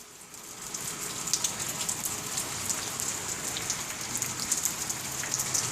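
Steady rain falling, with many small raindrop ticks.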